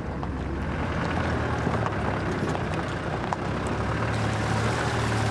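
Vehicle engine running at low speed with tyre and road noise on a rough unsealed track, heard from inside the cabin. The engine note rises a little about a second in and again near the end, with small scattered clicks and rattles.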